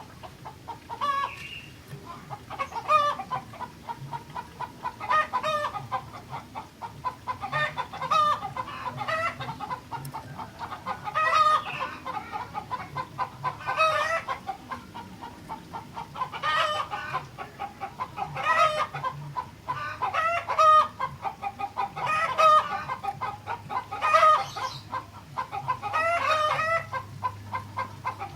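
Kutilang (bulbul) singing: a run of loud, bubbling, warbled phrases, one every couple of seconds.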